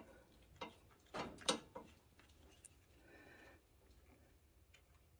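Wrench clinking against the tractor alternator's terminal nut and bracket: a few light metal clicks and taps, clustered between one and two seconds in, then a faint scrape.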